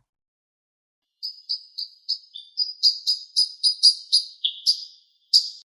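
Kingfisher calling: a quick series of short, high, piercing whistled notes, about three or four a second. The calls begin about a second in and stop shortly before the end.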